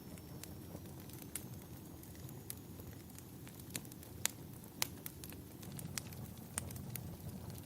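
Wood fire burning in a fireplace: a steady low rumble with irregular sharp crackles and pops, the two loudest pops about four and a half and five seconds in.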